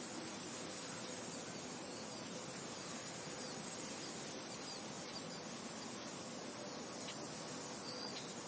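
Wind ambience: a steady, even hiss with a high shrill edge to it. A few faint short chirps come in the second half.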